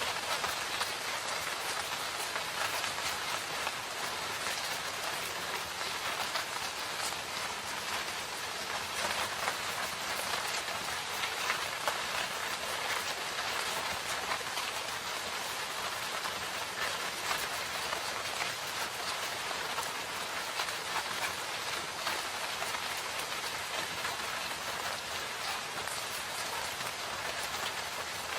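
Steady rain falling in a forest, a continuous even hiss thick with many small drop impacts.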